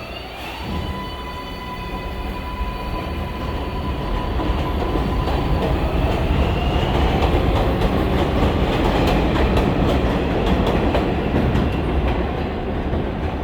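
R188 subway train pulling away and running: its traction motors whine, the pitch climbing briefly as it starts, while the wheels click over rail joints and the running noise grows louder over the first several seconds, then holds steady.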